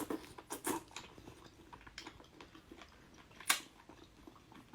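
A person chewing food close to the microphone: wet mouth smacks and clicks, with one sharper, louder click about three and a half seconds in.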